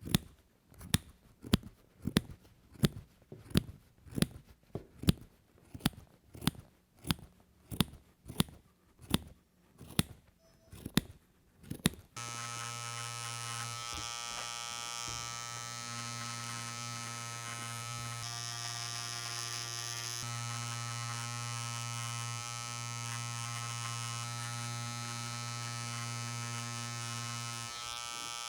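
Scissors snipping yarn, about one and a half sharp snips a second. A little under halfway through, a small handheld electric motor tool switches on suddenly and runs with a steady buzzing hum.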